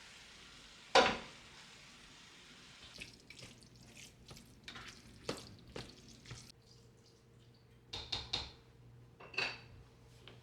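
Kitchen dishes and utensils clattering: one sharp clack about a second in, then a run of lighter clinks and knocks.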